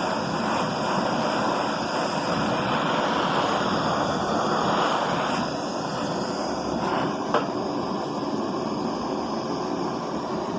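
Butane hand torch flame burning steadily on an aluminium bar, which is still not hot enough to melt the filler rod. One short tick sounds about seven seconds in.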